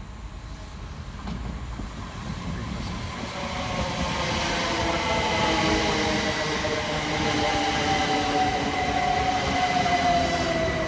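A c2c electric multiple unit approaches and runs past along the platform. Its wheels rumble on the rails, growing louder over the first few seconds, and a whine falls steadily in pitch as it goes by.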